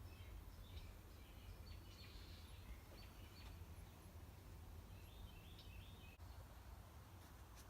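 Near silence: a faint low rumble with a few faint, short bird chirps, a cluster in the first seconds and another about five seconds in.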